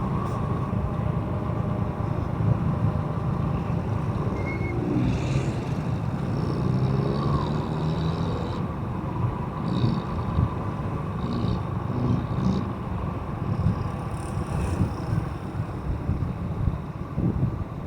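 Motorcycle engine running steadily while riding, with road and wind noise, and a few brief higher-pitched sounds from passing traffic.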